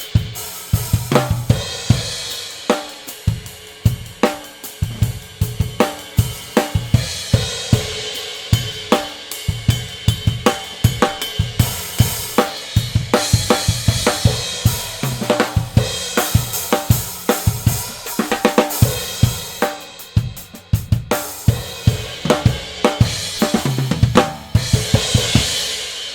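Drum kit played in a steady groove of kick, snare and Bosphorus Traditional series cymbals, with hi-hat strokes and crash accents; near the end the cymbals ring out and fade.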